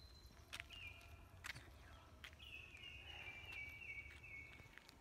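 Faint birdsong in woodland: a few thin, high whistled calls, the last a long trill that steps slowly down in pitch from about halfway through to near the end. A few soft clicks are heard along with it.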